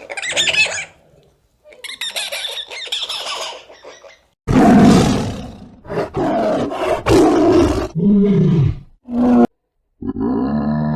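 A string of short animal calls clipped one after another, with sudden cuts between them. The loudest is a long, coarse roar about halfway through. A steady pitched call comes near the end.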